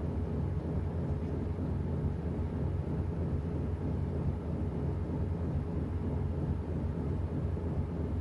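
Washing machine running mid-cycle: a steady low motor hum and rumble with no breaks or changes.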